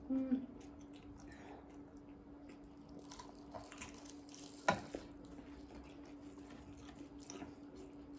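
Quiet eating sounds: scattered small clicks and smacks of chewing and utensils, with one sharp click about halfway through, over a steady faint hum.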